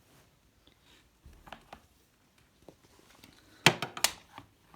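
A few light clicks, then a quick cluster of sharp plastic clicks and knocks about three and a half seconds in, as the electric kettle's power base is handled and its plug is pushed into a socket.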